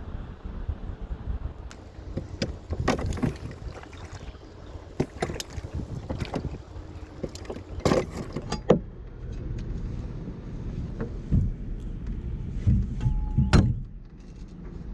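Irregular knocks and clunks from handling gear aboard a small boat, over a constant low rumble.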